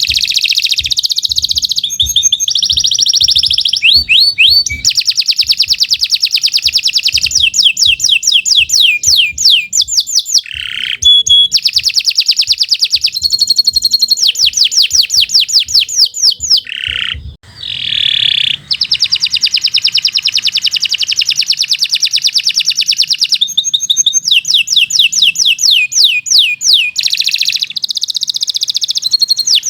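Domestic canary singing a long, unbroken song of fast trills: rapid repeated notes in rolling phrases that switch from one pattern to the next every few seconds, with a brief break a little past halfway.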